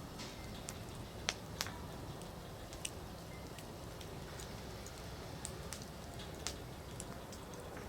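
Firewood burning in an open campfire: a steady low rush of flame with irregular sharp crackles and pops, two louder pops close together a little over a second in.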